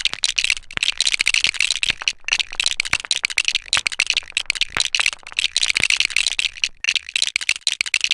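Dense, uneven rattling and clicking from a basketball hoop and net being handled while the net is changed.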